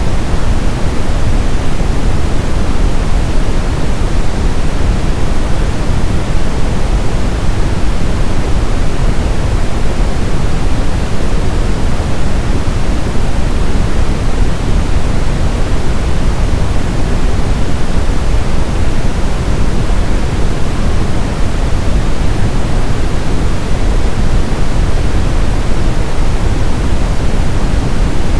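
Synthetic brown noise: a steady, loud rush weighted heavily toward the deep end, with no events or changes.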